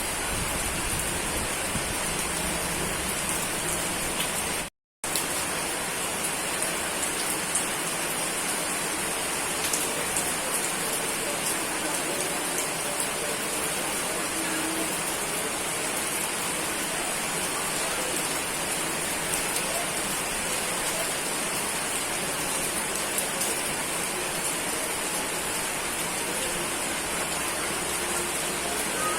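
Steady, heavy rainfall pattering on surfaces, an even hiss of many drops, broken by a brief cut to silence about five seconds in.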